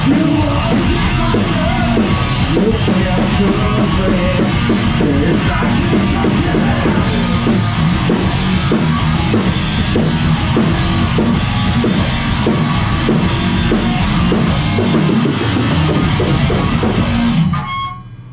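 Heavy metal music with distorted electric guitar and a pounding drum kit, which stops abruptly near the end.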